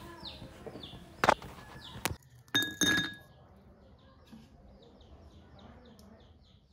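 Kitchenware clinking during tea making: four sharp knocks over about two seconds, the last two ringing like a glass or cup being struck. Faint high chirps repeat behind them.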